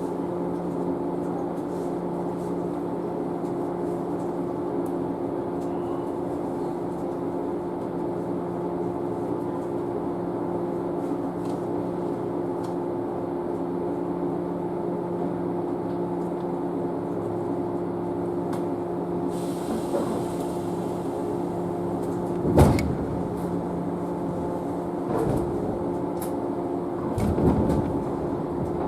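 Steady electrical equipment hum inside a stationary JNR 113 series electric train, holding the same low pitches throughout. A sharp knock about two-thirds of the way through and a couple of softer knocks near the end.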